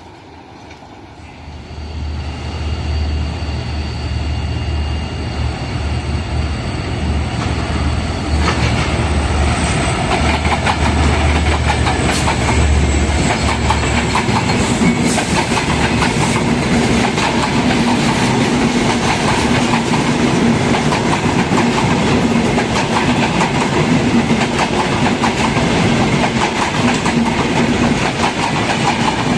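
Diesel locomotive passing close by with a deep engine rumble, then its coaches rolling past with a steady clickety-clack of wheels over the rail joints, louder from about eight seconds in.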